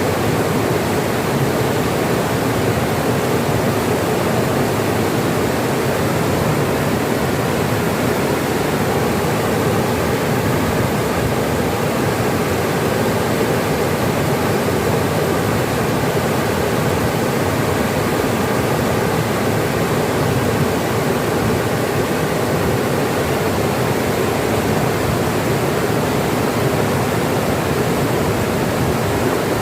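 Steady rush of running water, an even unbroken sound with no separate splashes or pauses.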